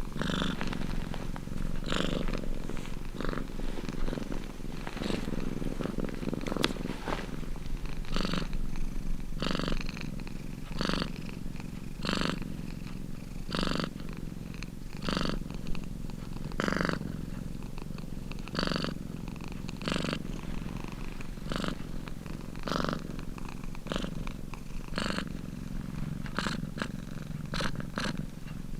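Domestic cat purring: a steady low rumble that swells with a breathy rise roughly every second and a half as the cat breathes in and out.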